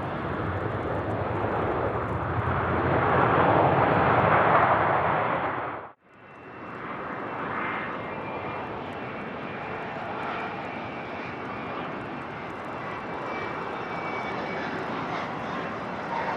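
Business jet engines passing close on landing, a broad noise that swells to a peak about four seconds in. It cuts off abruptly at about six seconds, then a steadier, quieter jet noise carries on.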